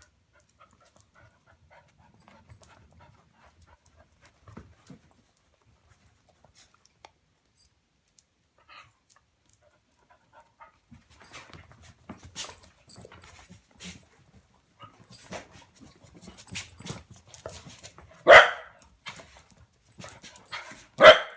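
Dogs, faint at first, then scuffling and panting from about halfway, with two loud short dog vocalisations near the end, about three seconds apart.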